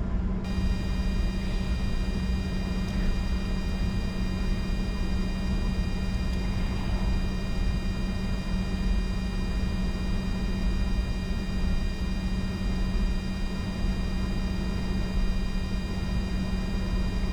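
Steady cockpit noise of a Bombardier Challenger 605 taxiing with its two GE CF34 turbofans at idle: a constant low hum with rumble beneath and a set of steady high whining tones, unchanging throughout.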